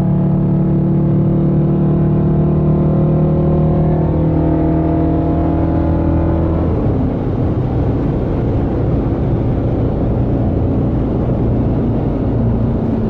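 A car engine running at a steady droning pitch; about seven seconds in the steady note breaks up into a rougher, noisier rumble.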